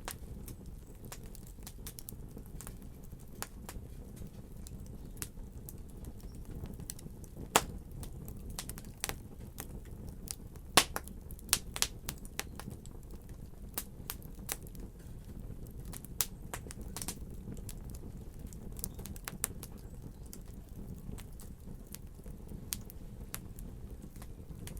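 Fire crackling: irregular sharp pops and snaps over a low steady rumble, with the loudest pops about eight and eleven seconds in.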